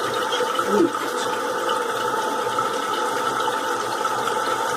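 Water rushing steadily through a newly installed Korky Universal Platinum fill valve as the toilet tank refills, a continuous hissing flow. A brief short sound stands out just under a second in.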